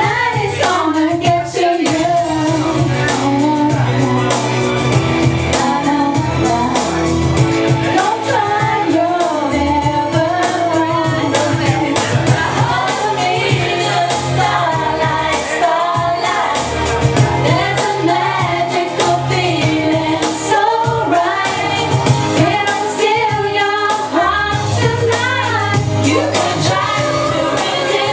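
Karaoke: a singer's voice over a pop backing track with steady bass.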